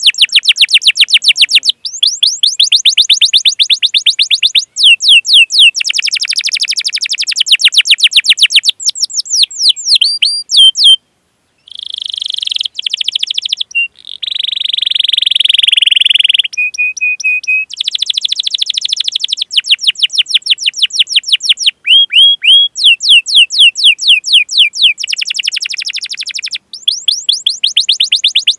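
Domestic canary singing a long song: phrases of rapid, evenly repeated falling chirps ('cuit cuit'), separated by short pauses, with a dense buzzing roll about halfway through.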